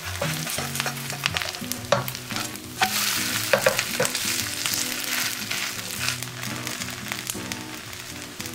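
Cabbage pancake batter sizzling steadily in hot oil in a frying pan, with scattered clicks and scrapes of a plastic slotted spatula against the pan. The sizzle eases a little near the end.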